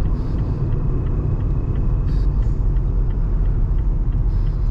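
Steady low rumble of a car's engine and tyres on the road, heard from inside the moving car, with faint regular ticking above it.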